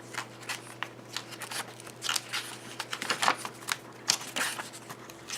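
Paper pages of a Midori B6 planner being flipped one after another, a quick run of short rustles.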